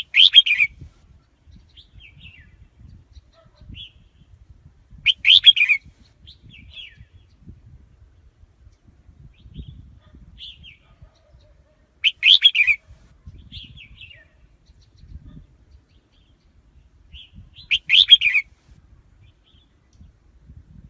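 Red-whiskered bulbul singing four short, loud phrases several seconds apart, with soft chirps in between. This is a decoy bird's song used as a lure to call wild bulbuls in for trapping.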